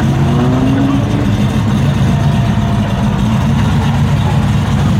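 Big-block V8 muscle car engine idling steadily through its exhaust, a deep, pulsing note that holds at one speed.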